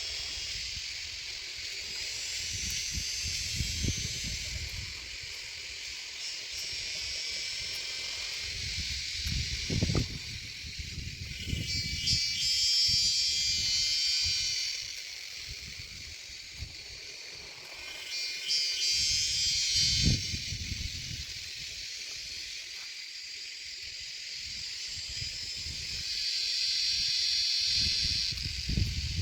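Shrike nestlings begging with hissing, raspy calls that swell in bouts of a few seconds, three times, over low rumbling from wind or handling.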